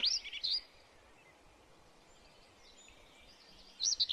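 Small birds chirping and twittering in quick, high, sliding notes. The chirping stops under a second in and starts again near the end.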